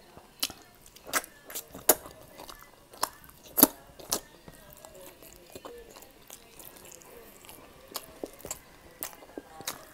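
Close-up mouth sounds of a person chewing pork liver steak: sharp wet clicks and smacks, scattered irregularly, the loudest about three and a half seconds in.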